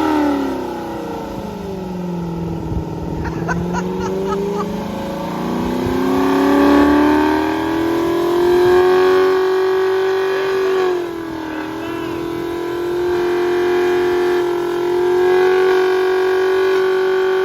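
Car engine revving under load: its pitch sags and climbs back over several seconds, dips briefly about two-thirds of the way through, then is held at a steady high rpm. The engine is being pushed on after bogging down.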